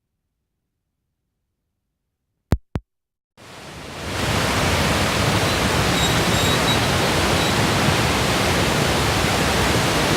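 Two sharp clicks in quick succession, then a waterfall: a dense, steady rush of falling water that swells in over about a second and holds.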